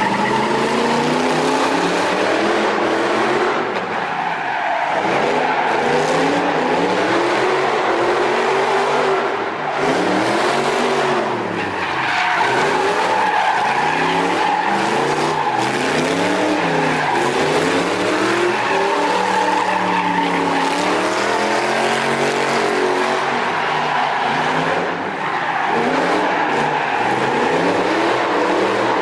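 V8-swapped BMW E46 drift car with a straight-pipe exhaust, its engine revving up and falling back again and again, with tyre squeal throughout.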